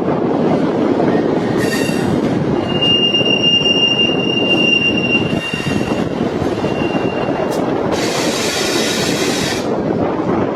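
Diesel multiple-unit train running at a station platform, with a steady low rumble. A thin, high wheel squeal comes in about three seconds in and holds for about three seconds, and a short burst of hiss sounds near the end.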